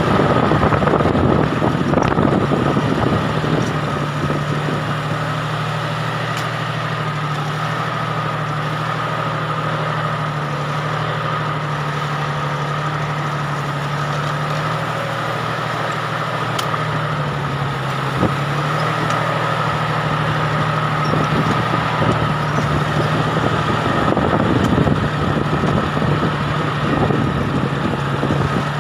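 Farm tractor engine running steadily, heard from the tractor's seat, with a steady whine over its low hum; the engine note dips briefly about two-thirds of the way through.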